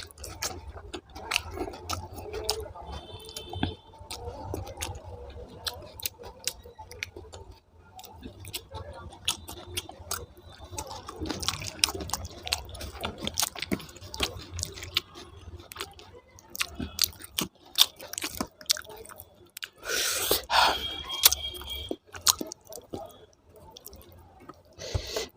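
Close-miked chewing and wet mouth sounds of a person eating rice with dum aloo potato curry, full of small sticky clicks. A louder, longer noisy sound comes about twenty seconds in.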